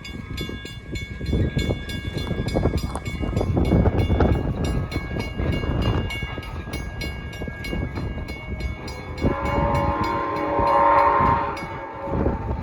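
A train passing with steady high ringing tones and fast, even clicking, then sounding its horn in one blast of about three seconds, starting about nine seconds in.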